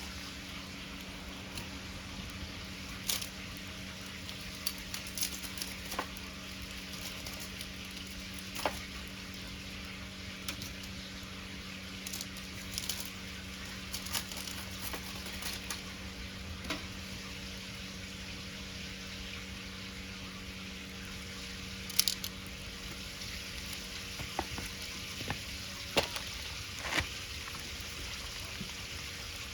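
Wood fire crackling, with sharp pops at irregular intervals over a steady sizzling hiss.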